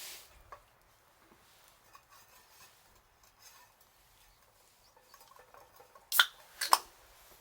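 Wood fire crackling faintly with scattered small ticks, then two sharp, loud pops about half a second apart near the end.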